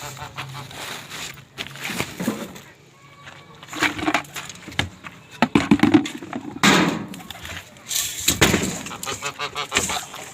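Domestic waterfowl calling in short honks and quacks several times, amid scattered knocks and rustling.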